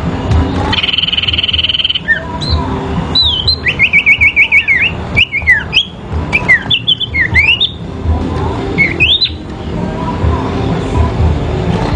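Sirpu songbirds singing against each other in a duel: quick sweeping whistled notes and chirps, with a fast run of repeated notes in the middle, after a steady buzzing trill at the start.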